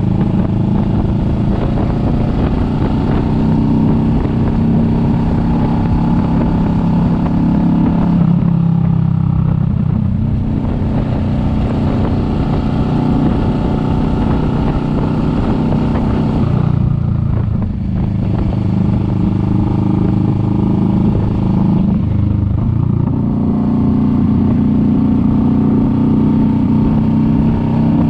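Kawasaki Vulcan S 650 parallel-twin engine running under way. Its note drops around eight seconds in and falls again around sixteen to eighteen seconds, with a brief dip in loudness, before climbing back up a few seconds later as the throttle is rolled off and on again.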